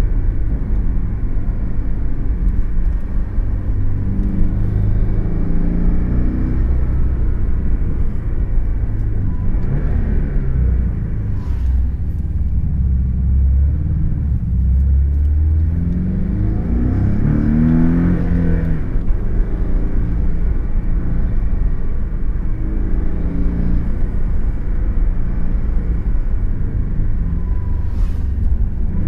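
Porsche sports car's engine heard from inside the cabin: a steady low rumble, the revs climbing and falling several times as the car accelerates along the road, with the strongest climb a little past halfway.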